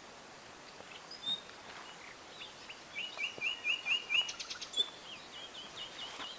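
Small birds singing: a short high note about a second in, then about three seconds in a quick run of about seven repeated notes, and another short run near the end.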